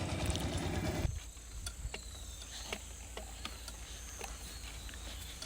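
Quiet outdoor night-time-style ambience with faint insect chirping held on one steady high tone, dotted with scattered small clicks; the sound drops suddenly about a second in as the scene changes.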